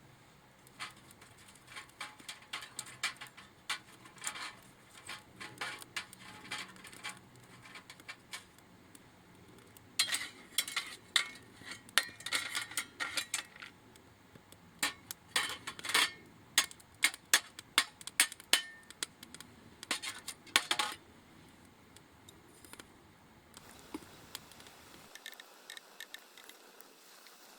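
Irregular flurries of light clicks and clinks, sparse at first and thickest from about ten to twenty-one seconds in, then dying down.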